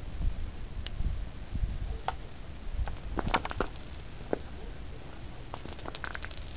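Scattered sharp clicks and crackles of ice, coming in clusters about three seconds in and again near the end, over a low rumble.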